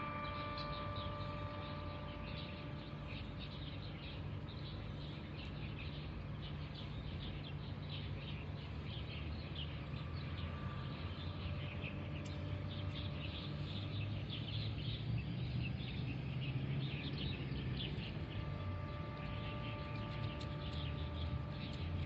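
Small birds chirping and twittering in quick, repeated notes over a steady low background hum.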